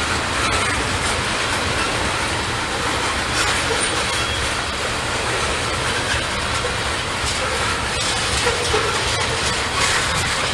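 Freight train cars rolling past steadily, with a constant rumble of wheels on rail and faint clicks over the rail joints.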